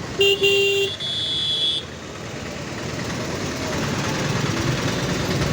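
Kawasaki Ninja ZX-10R's 998 cc inline-four engine running on the road, growing steadily louder through the second half. A high steady tone sounds briefly near the start.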